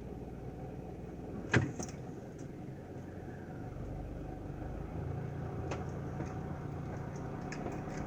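A car engine running steadily with a low hum that changes slightly about five seconds in. A sharp click about a second and a half in is the loudest sound, with a fainter click later.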